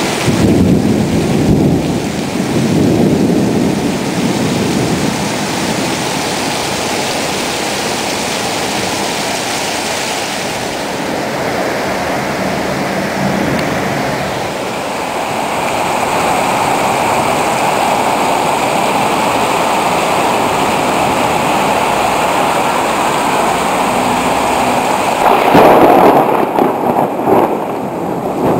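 Heavy rain falling steadily in a downpour, with louder low surges in the first few seconds and again near the end.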